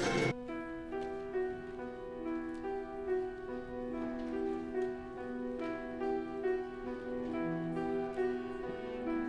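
Piano playing a slow, quiet passage of held notes, just after a louder, fuller sound cuts off near the start.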